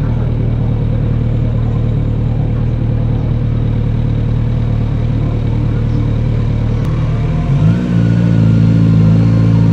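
Kawasaki Z900RS inline-four running steadily at low revs, then about seven and a half seconds in the revs rise quickly and hold at a higher, louder note as the bike accelerates.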